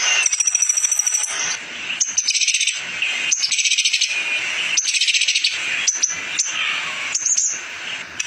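Sunbird singing: repeated bursts of rapid, high-pitched trills and chips with short pauses between them.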